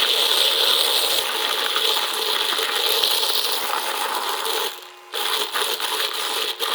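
A handheld battery milk frother whirring as it mixes mushroom coffee powder into water in a mug, with a steady rattling buzz. It stops briefly about five seconds in, then starts again.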